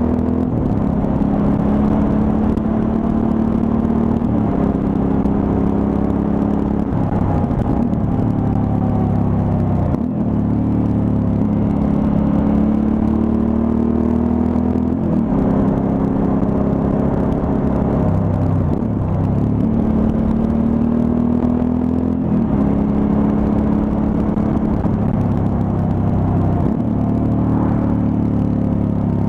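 Suzuki V-Strom 1000's V-twin engine running on the road. Its note climbs in pitch and then drops sharply again every three to four seconds, as the throttle is worked and gears change.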